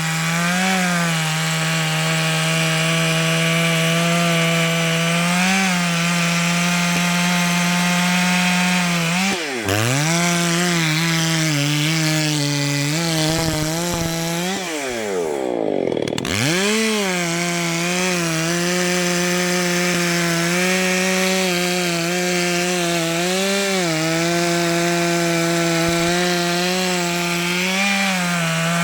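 Two-stroke chainsaw running at high revs while cutting, its pitch sagging slightly under load and recovering. About nine seconds in, and again around fifteen seconds, the revs drop off sharply and climb straight back to full throttle.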